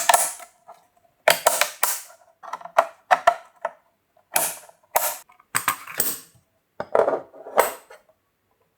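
Hard clacks and clinks of 3D-printed turntable parts and metal bearing pieces being handled and set in place: about a dozen sharp knocks in several clusters, each ringing briefly, stopping just before the end.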